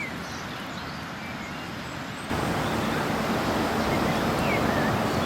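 Steady rushing surf against rocks, stepping suddenly louder about two seconds in, with a few faint short bird chirps.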